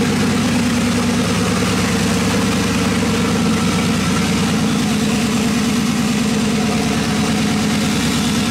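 Twin-turbo LS V8 engine idling steadily while it warms up, running on a newly installed Holley Terminator X ECU.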